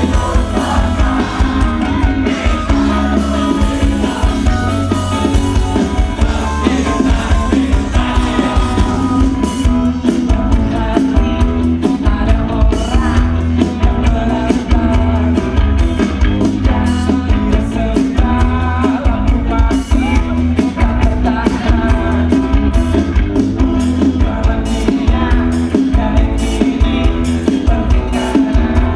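Live rock band playing loud through a concert sound system: a singer over electric guitar, heavy bass and a drum kit, with the cymbals keeping a steady beat from about ten seconds in.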